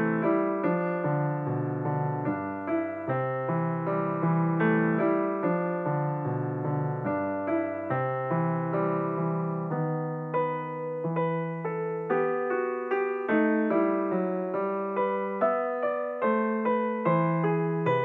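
Background piano music, a steady run of notes struck one after another.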